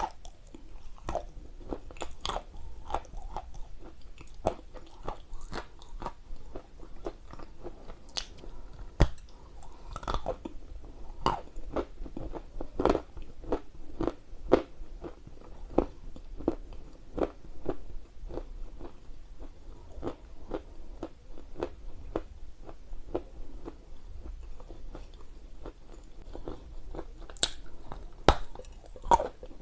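Close-miked biting and chewing of dry edible Ural clay: irregular sharp crunches, about one or two a second, as pieces are bitten off and ground between the teeth.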